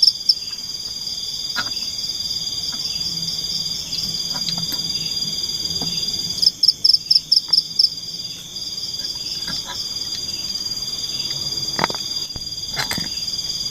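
A chorus of forest insects and frogs with steady high trills. About halfway through comes a short run of loud, rapid chirps, and near the end there are two sharp knocks.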